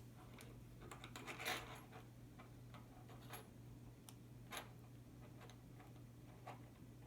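Faint, irregular small clicks and ticks of a screwdriver prying at the tight-fitting plastic case of a car-alarm remote fob, with a couple of louder snaps about a second and a half in and again about four and a half seconds in as the case seams start to give.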